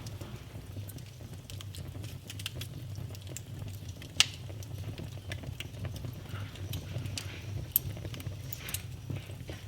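Fireplace fire crackling: a steady low rumble of flames under scattered small crackles, with a sharp pop about four seconds in and another near eight seconds.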